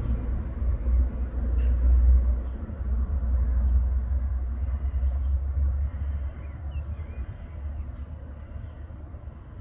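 A low rumble that swells and eases, strongest in the first half and fading toward the end, with faint short high chirps above it.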